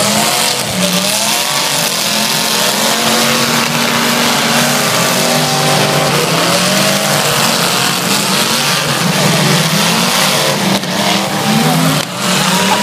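Several demolition derby cars' engines running and revving hard together, a loud continuous din whose pitch rises and falls as the drivers work the throttles.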